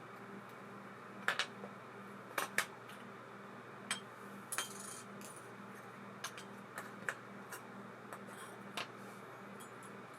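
Scattered light metallic clicks and clinks, a few louder than the rest, like small metal parts and tools being handled, over a steady low hum.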